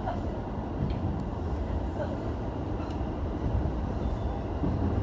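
Running noise of an electric commuter train, heard from inside the car: a steady low rumble.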